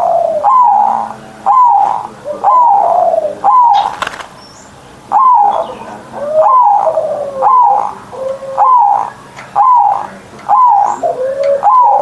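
Zebra dove (perkutut) cooing loudly in a steady series of notes, about one a second. Each note has a sharp attack and falls away in pitch. There is a short pause with a brief click about four seconds in.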